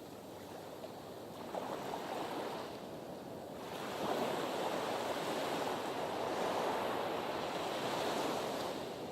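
Sea waves washing against a breakwater, one surge swelling about a second and a half in and a larger, longer one from about four seconds in that fades near the end, with light wind on the microphone.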